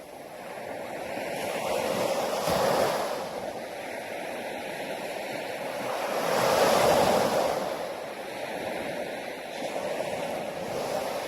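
Sea waves breaking and washing onto a beach, a steady rushing that swells into two louder surges about three and seven seconds in.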